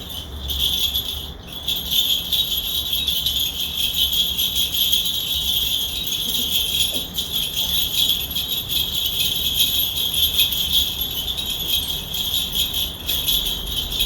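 Korean shaman's cluster of hand bells shaken continuously in a rapid, steady jingle, with a brief break about a second and a half in.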